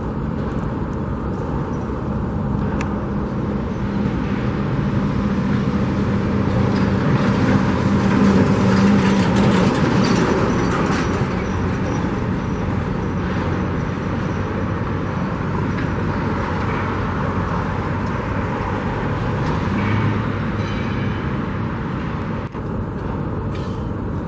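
Steady road traffic, with a vehicle engine swelling louder and passing about a third of the way in, and another briefly near the end.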